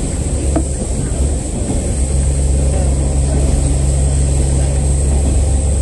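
Diesel railcar of the KiHa 47 series running under way, heard inside the passenger cabin: a steady low engine drone whose note firms up about two seconds in, with a constant high whine above it.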